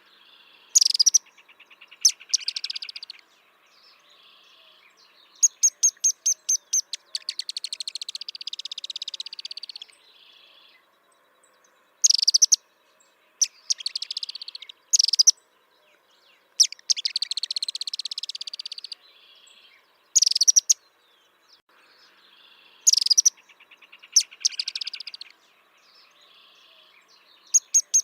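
A bird singing in repeated phrases. Each phrase is a rapid run of sharp, high notes followed by a longer buzzy trill, and the phrases come back every five to six seconds.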